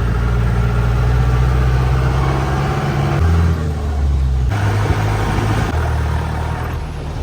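Mahindra 4x4 jeep engine running, its low note stepping to a different pitch about three seconds in and again twice more as the engine speed changes.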